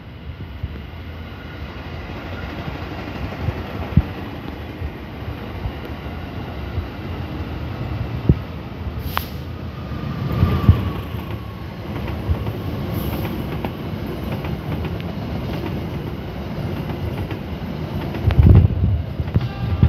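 Passenger train passing close on the track: a rumble of steel wheels on rail that builds as it nears, with sharp clacks over the rail joints. The loudest heavy thumps come near the end as the carriages go right by.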